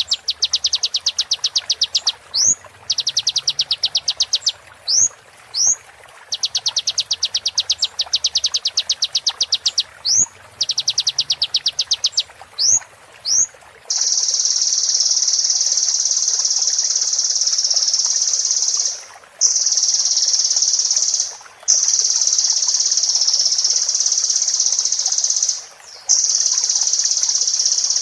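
Sunbird song: bursts of rapid, high chattering trills broken by quick upward-sweeping whistle notes. About halfway through, these give way to a continuous high buzzing trill with brief breaks every two to four seconds.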